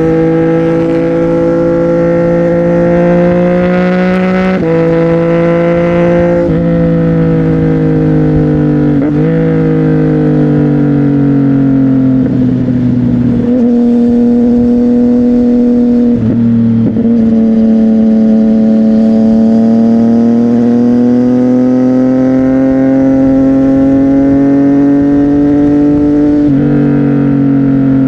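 CFMOTO 675NK's inline-triple engine running loud through a Burnout titanium exhaust while riding. The engine note shifts abruptly several times, as at gear changes, and rises and falls slowly between them.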